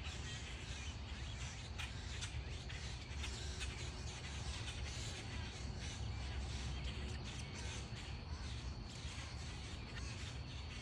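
Birds calling outdoors over a steady low background rumble, with scattered faint short clicks.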